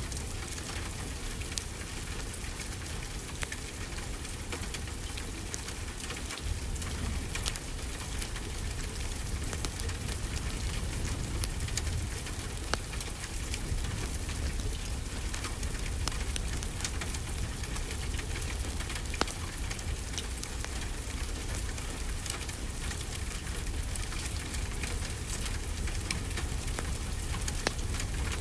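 Steady rain with the crackle of a wood fire: an even hiss scattered with sharp little pops and clicks, over a low rumble.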